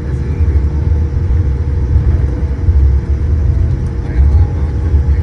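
Steady low rumble inside a Boeing 787-8's cabin on the ground after landing, with a constant steady hum above it.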